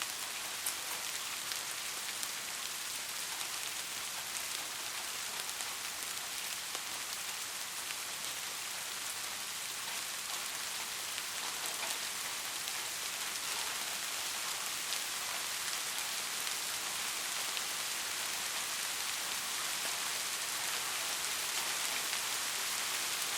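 Steady rain falling and pattering on a surface, an even hiss with the odd distinct drop ticking through it.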